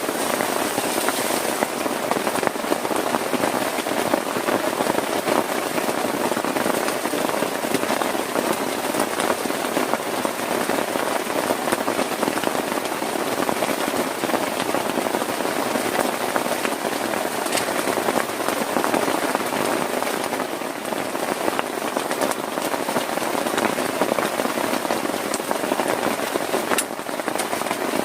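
Heavy rain beating on a plastic tarp over a tent: a dense, steady patter of many small drop impacts.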